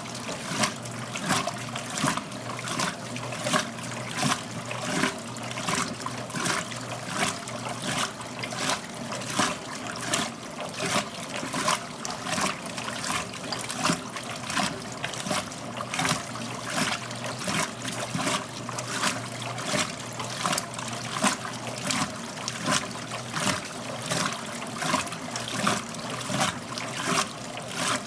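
1969 Westinghouse LAJ 535A3 washing machine working a load of clothes in water: rhythmic sloshing and splashing, about three strokes every two seconds, over a steady motor hum.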